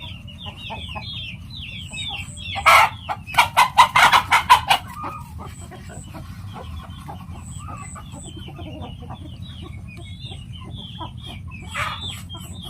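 Chickens in a farmyard: a loud run of rapid clucking calls about three seconds in and another fowl call near the end, over continual high chirping of small birds and a steady low hum.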